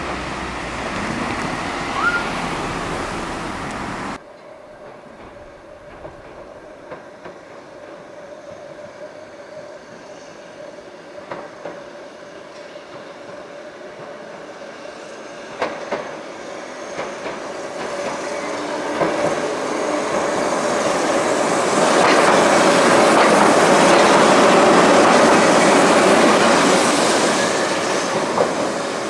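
Keihan 600 series electric train running along the track, its wheels clicking over rail joints with a steady tone under the running noise. The sound drops sharply about four seconds in, then builds as the next train approaches, loudest about two-thirds through, and eases off near the end.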